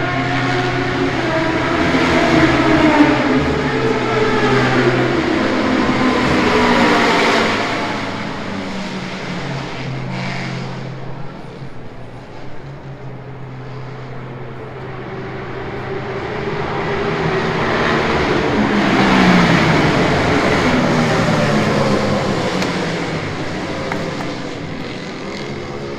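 Racing motorcycle engines passing at speed, their pitch sweeping up and down as the bikes go by. The sound swells over the first seven seconds, dips, then swells again with another pass at the loudest point about two-thirds of the way through.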